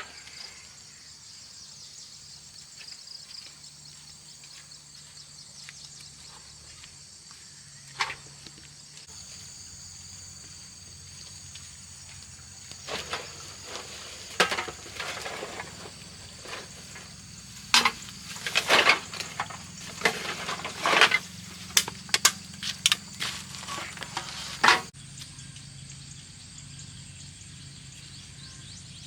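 Insects droning steadily in high tones, with a run of sharp clatters and knocks starting about halfway through and stopping a few seconds before the end.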